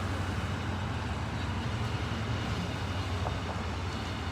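Street traffic: a steady low engine hum from vehicles running on a busy road.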